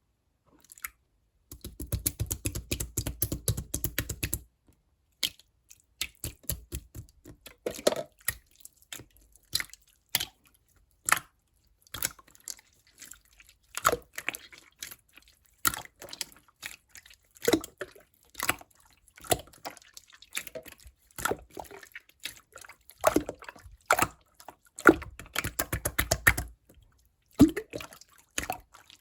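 Clear slime being squeezed and poked by hand, giving wet clicks and pops. Two longer runs of rapid squishing come near the start and near the end, with separate pops in between.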